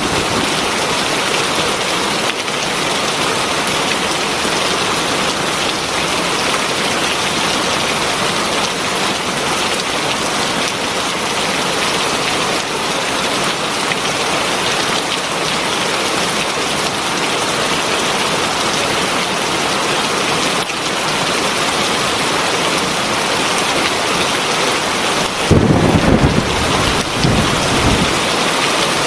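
Heavy rain pouring steadily in a dense, even hiss. A low rumble of thunder swells for a couple of seconds near the end.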